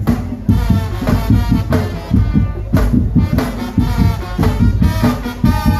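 Madurese tongtong ensemble playing: a dense, fast beat of drums and wooden and bamboo kentongan slit drums, with a melody line held and bent above it.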